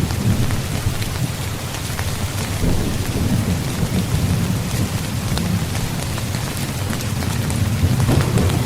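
Steady rain with individual drops ticking, over a low, continuous rumble of thunder.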